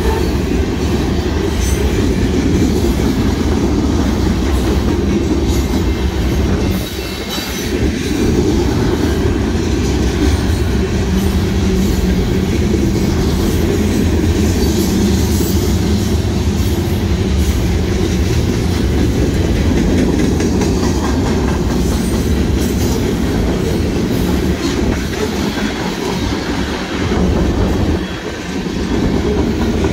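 Mixed freight train's cars rolling past at speed: a steady heavy rumble with the clatter of wheels on rail joints, dipping briefly about a quarter of the way in and again near the end.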